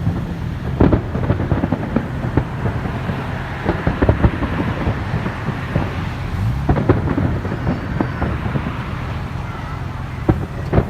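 Fireworks display: a dense, irregular run of bangs and crackles over a continuous low rumble.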